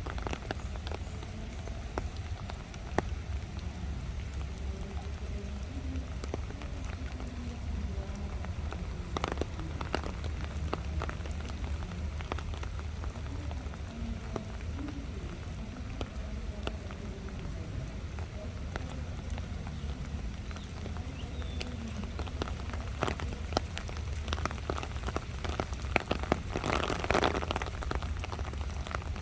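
Steady rain falling, with many scattered sharp drip taps throughout and a louder patch of rain noise near the end.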